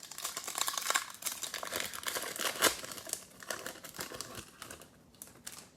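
Foil wrapper of a trading-card pack crinkling as it is handled and torn open, with the cards rustling and clicking against each other. The crackling runs almost continuously for about five and a half seconds, then stops.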